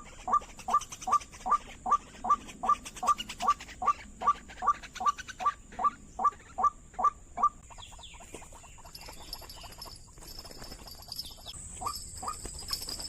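White-breasted waterhen (ruak-ruak) calls: a fast run of short, evenly repeated notes at about three a second, breaking off about halfway through, with two more notes near the end.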